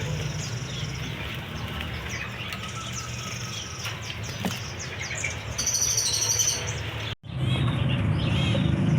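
Several caged songbirds chirping and twittering at once, over a steady low background rumble. The sound drops out for a split second about seven seconds in, and the rumble is louder afterwards.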